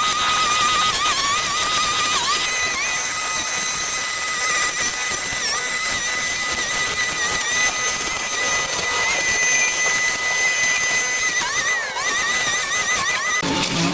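Small petrol engine of a handheld power tool running at high revs, its pitch dipping briefly a few times as it takes load and then climbing back; it changes abruptly to another sound near the end.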